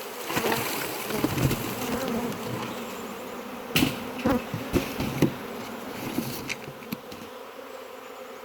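A swarm of honey bees buzzing in the air around the hive. Several bees pass close by in quick succession about four to five seconds in, giving brief louder buzzes that rise and fall in pitch.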